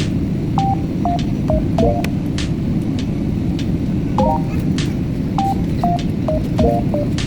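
Steady low rumble of an airliner cabin in flight, with a simple tune of short notes stepping up and down in pitch running over it and a few light clicks.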